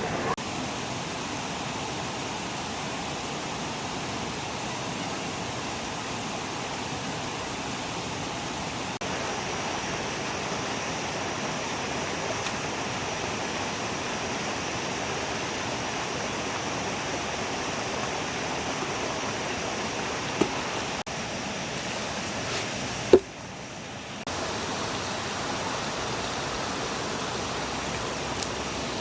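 Stream water flowing steadily, an even rushing sound. Two brief knocks come about twenty seconds in, and the rush drops for a moment after the second.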